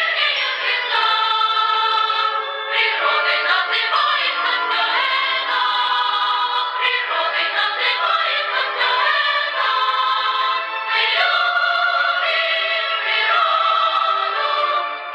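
A song: voices singing a melody over instrumental accompaniment, sounding thin, with no bass.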